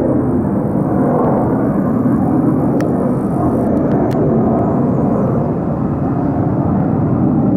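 US military fighter jet taking off: loud, steady jet engine noise with its weight in the deep and middle range, no breaks.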